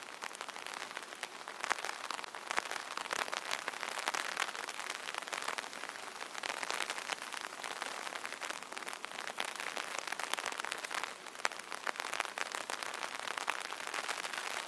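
Light rain pattering steadily on an open umbrella canopy, a dense stream of small drop ticks.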